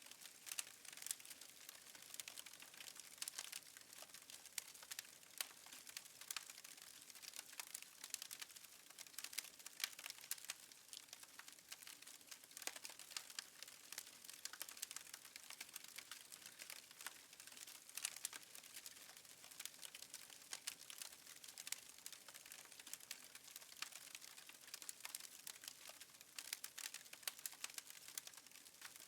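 Fireplace wood fire crackling faintly, with dense irregular small pops and snaps.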